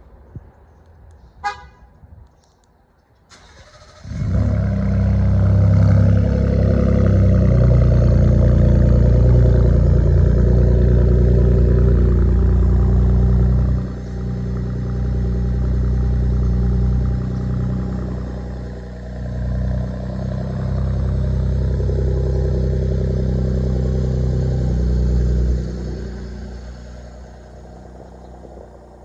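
2017 Ford Raptor's 3.5-litre twin-turbo V6 cold-starting through a muffler-delete exhaust that keeps the resonator: a short chirp, then the engine catches about four seconds in and runs loud at a raised cold-start idle. The level dips about ten seconds later and drops again near the end as the idle begins to settle.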